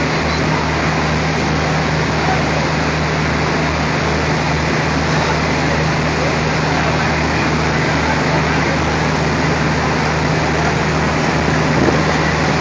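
ALCO diesel locomotive engine idling: a steady, loud low drone with an even rushing noise over it.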